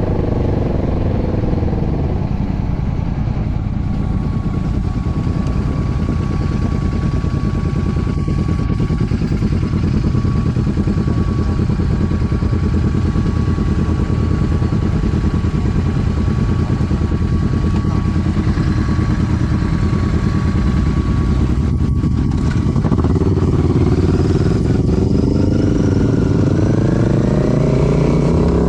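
Royal Enfield Classic 650's parallel-twin engine and exhaust running under way. Its pitch falls in the first couple of seconds, holds steady while cruising, then rises and dips several times near the end as the bike accelerates through the gears.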